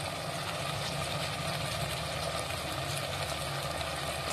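Tomatoes and onions sizzling gently in oil in a pot on the stove, over a steady low hum.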